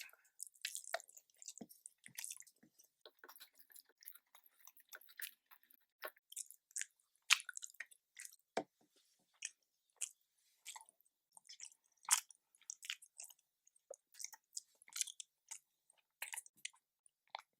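A person chewing a mouthful of nasi dagang, rice with fish curry, with short, irregular wet smacks and clicks of the lips and mouth in quick succession.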